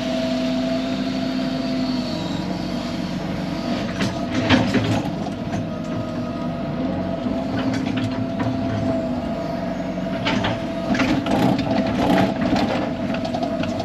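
Excavator's diesel engine running steadily with a held hydraulic whine, with scattered clanks and knocks from the machine working in the mud, clustered around four to five seconds in and again from about ten seconds on.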